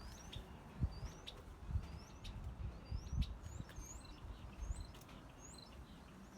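DoAll surface grinder's hydraulic table stroking back and forth under power, with a low knock and a short high squeak about once a second.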